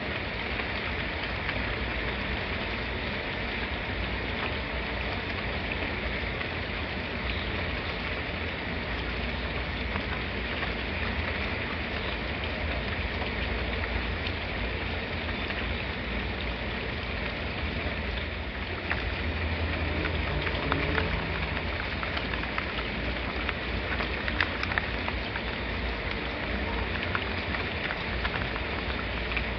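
Steady rain falling, an even hiss of drops. A low rumble swells briefly about two-thirds of the way through, and a few sharper drip ticks follow.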